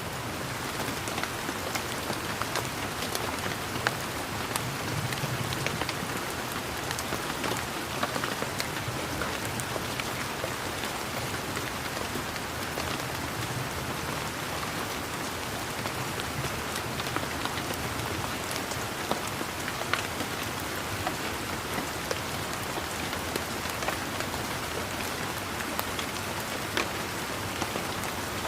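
Steady rain falling, with many individual raindrops ticking sharply against near surfaces.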